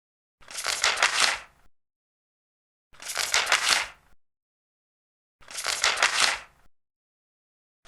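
Large paper pages being turned one after another: three rustling turns, each lasting just over a second, about two and a half seconds apart.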